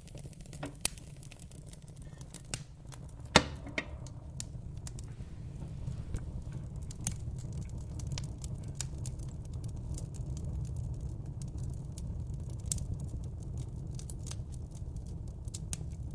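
Fire crackling in a fireplace: a steady low rumble of flames with scattered pops and snaps, the loudest a sharp snap about three and a half seconds in.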